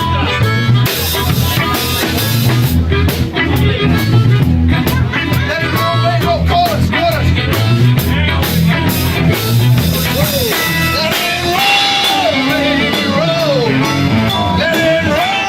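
Live band playing a rock/blues number: drum kit keeping a steady beat, bass guitar, and a lead line that bends in pitch over them.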